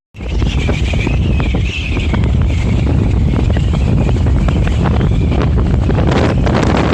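Strong gusty wind buffeting the microphone in a heavy, steady rumble, fading in just after the start. A thin, wavering high whistle runs through the first five seconds or so.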